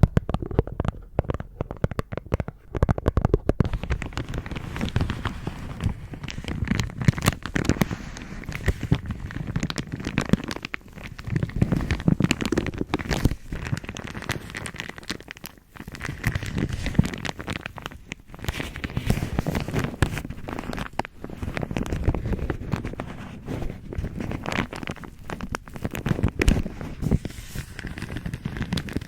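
A bag being crinkled and squeezed close to the microphone: dense, continuous crackling and rustling.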